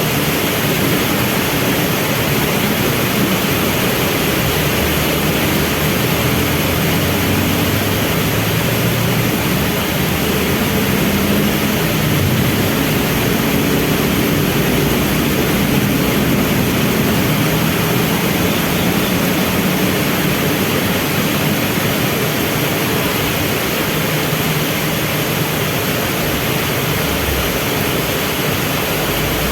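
Heavy rain falling steadily, with vehicle engines running underneath, loudest in the middle and easing off toward the end.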